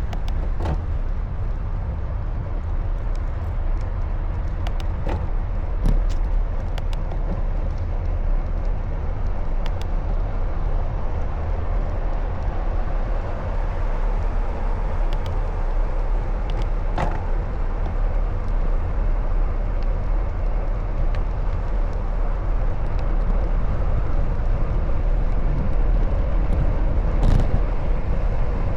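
Steady rumble of a bicycle ride in city traffic, with a few brief clicks.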